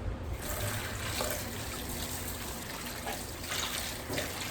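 Kitchen tap running while scallions and chili peppers are rinsed under it, the water splashing steadily with small changes as the vegetables are moved in the stream.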